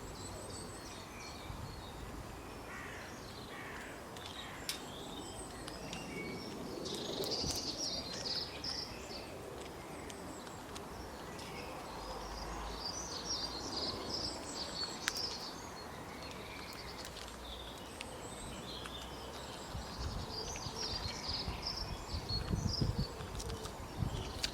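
Outdoor ambience with birds singing: clusters of high chirps recur about every six to eight seconds over a steady low background rumble.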